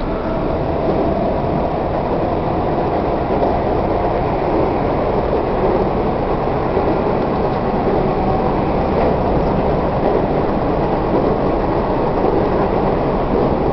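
Tobu 1800 series electric train running at speed, heard from inside a passenger car: a steady rumble of wheels and running gear with no breaks.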